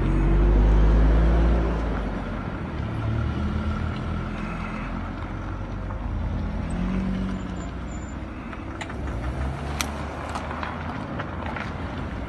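Road traffic noise: a heavy vehicle's engine rumbles loudly for the first couple of seconds, then steady engine and road noise continues, with a few sharp clicks near the end.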